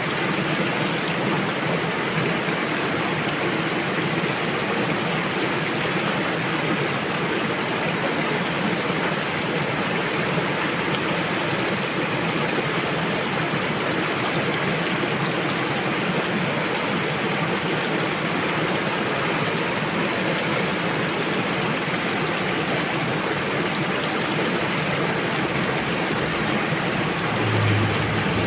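Rushing river water: a steady, even flow noise. A brief low thump comes near the end.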